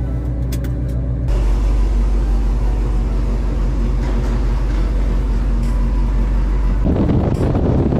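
C7 Corvette's V8 running at a steady cruise while driving, with road noise rising about a second in. Wind buffets the microphone near the end.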